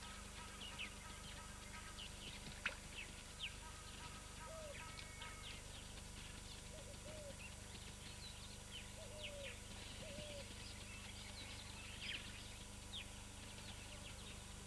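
Faint scattered bird calls: many short high chirps and a few lower arched calls, over a steady low hum.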